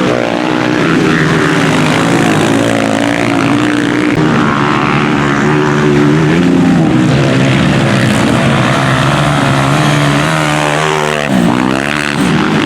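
Several single-cylinder Honda CG motorcycle engines racing together, their pitches rising and falling as the riders accelerate and shift, with a sharp swoop in pitch near the end.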